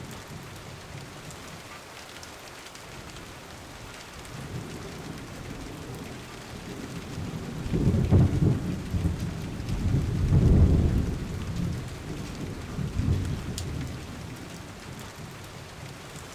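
Steady rain with low rolls of thunder, the loudest about eight and ten seconds in and a weaker one a little later.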